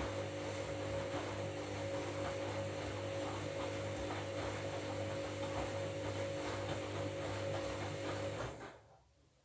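Washing machine drum turning during a wash of bed linen: a steady motor hum with water and wet laundry sloshing, then the motor cuts off about eight and a half seconds in as the drum pauses between turns.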